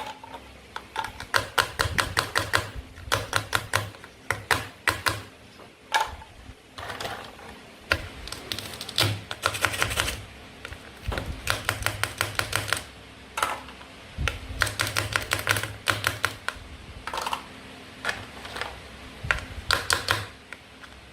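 Toy fruit and vegetable pieces being handled and cut, giving repeated short runs of rapid, sharp clicking and tapping, several strokes a second.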